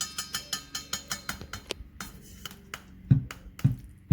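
Rapid light taps on a WACACO Pipamoka's stainless steel mug, about six a second, then three louder knocks near the end. The mug is being tapped to drive trapped air out of the sunken filter basket.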